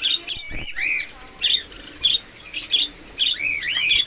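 Parakeet calling: a series of short, sharp screeches that rise and fall in pitch, with one loud harsh squawk just after the start and several more calls through the rest.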